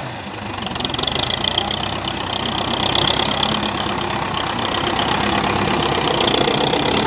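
Tractor diesel engine running, getting louder over the first three seconds or so and then holding steady.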